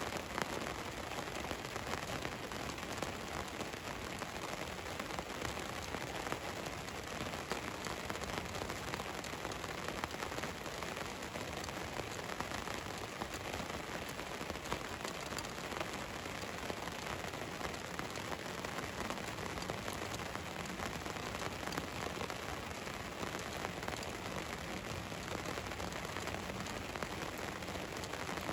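Steady rain falling on a van's roof: an even hiss with many small drop impacts.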